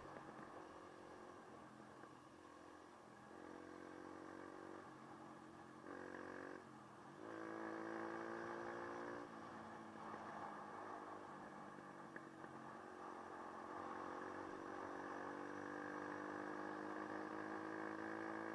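Dirt bike engine running under varying throttle. It briefly backs off and picks up again about six to seven seconds in, then pulls more steadily with a slowly rising pitch.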